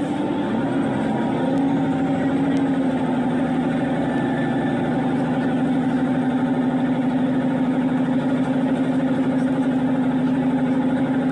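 Diesel multiple unit's underfloor engine running under power, heard from inside the train. The drone rises slightly in pitch over the first second or so, then holds steady with a fast, even throb.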